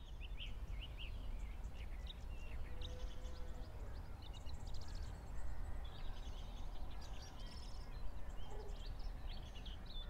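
Small birds chirping and twittering in quick, overlapping calls over a steady low rumble.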